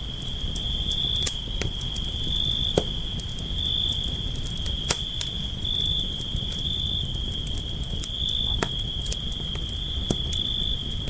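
Campfire crackling, with irregular sharp pops every second or two over a low rumble of burning wood. A continuous high trill of crickets runs steadily underneath.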